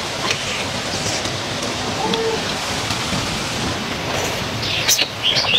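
A steady rushing hiss throughout, with close wet chewing and mouth sounds from eating a large piece of fried food in spicy sauce, clearest near the end.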